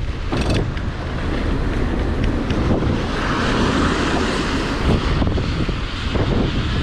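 Gusty wind buffeting an action camera's microphone, a heavy steady rumble, with a rushing hiss that swells in the middle and fades again.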